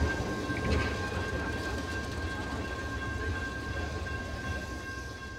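Train running: a steady low rumble and rattle with a thin, steady high tone above it, starting to fade near the end.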